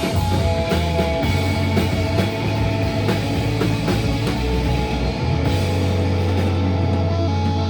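Live rock band playing with drum kit and guitars; about five seconds in the drums stop and a held chord with a low bass note rings on, the close of the set's last song.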